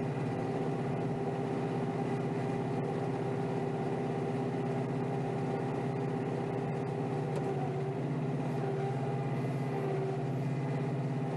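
Kioti DK5320SE compact tractor's diesel engine running steadily under load, heard from inside the tractor's cab, with a slight change in its note about two thirds of the way through.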